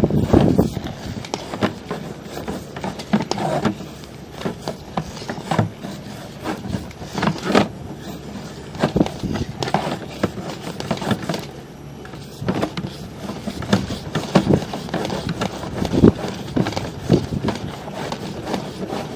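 Irregular scraping and knocking as a sewer inspection camera's push cable is fed through the drain line, with short knocks every second or so.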